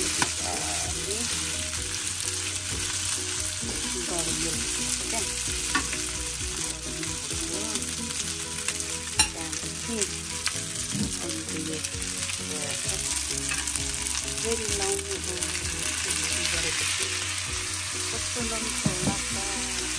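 Chow mein frying in a pan, a steady sizzle while it is stirred, with a few sharp utensil knocks, the loudest about halfway through.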